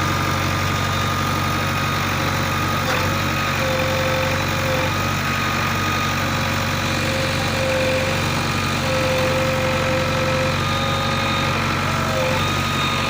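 Heavy diesel engine running steadily at low speed, with a thin whine that comes and goes.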